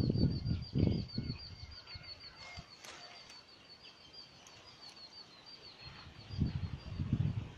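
A small bird's rapid run of short high chirps, about seven a second, fading out about five seconds in. Bursts of low rumbling noise come in the first second and again near the end.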